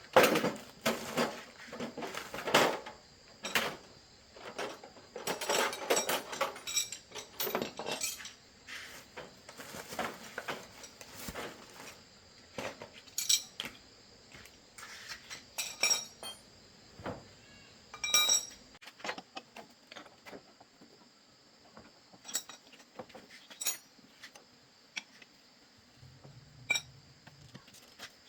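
Small metal parts and tools clinking and knocking in irregular taps, some with a brief metallic ring. The taps are busiest in the first half and sparser later.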